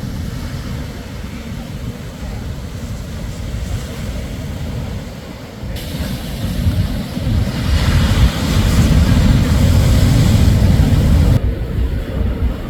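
Shorebreak waves crashing on the beach with a deep rumble. A wave builds about halfway through and stays loudest for a few seconds, then the sound drops back sharply near the end.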